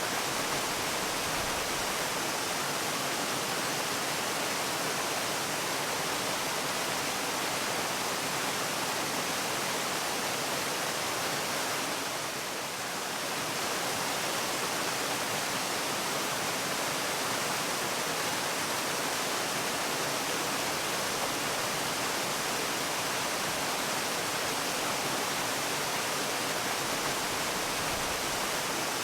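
Waterfall: a steady, even rush of falling water, easing slightly for a moment about twelve seconds in.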